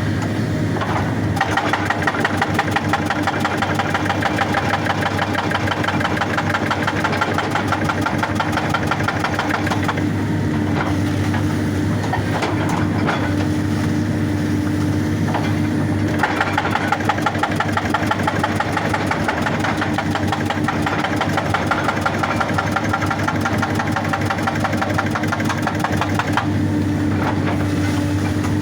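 Excavator's diesel engine running steadily while its hydraulic breaker hammers rock in two long runs of rapid, even blows. The hammering starts about a second in, stops around ten seconds, resumes around sixteen seconds and stops again a couple of seconds before the end.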